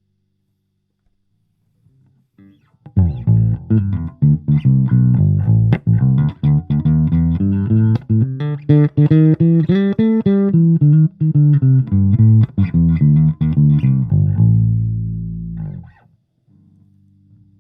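Electric bass guitar played through a Fender Rumble 25 combo amp: a quick run of plucked notes starting about three seconds in, ending on one note held for about a second and a half before it is cut off.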